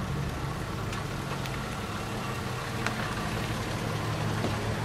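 Engine of a classic Jaguar saloon running steadily at low revs as the car rolls slowly along.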